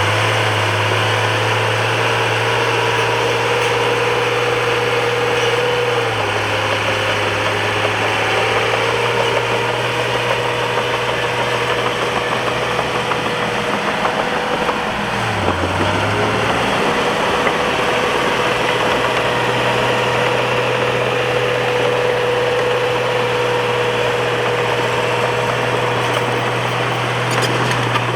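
A bulldozer's diesel engine running steadily under work. Its pitch shifts a few times and dips briefly, then picks back up, about halfway through.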